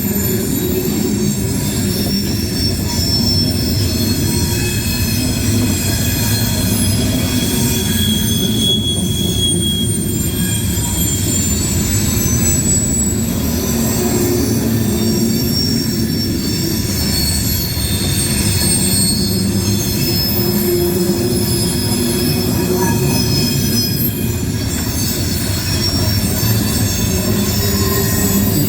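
Loaded coal hopper cars of a freight train rolling past at speed: a steady rumble of steel wheels on rail with thin, high wheel squeal tones drifting above it.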